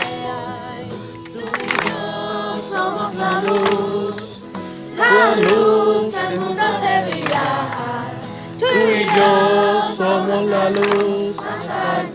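A group of voices singing a worship song with music, swelling louder in two sung phrases about five and nine seconds in.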